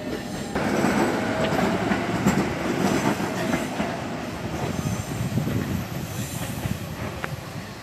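Electric commuter train pulling out of the station along the platform, its wheels running on the rails and the sound getting gradually quieter as it draws away.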